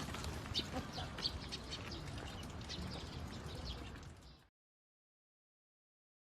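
Faint chirping of many birds over a low noisy background, cutting off about four seconds in.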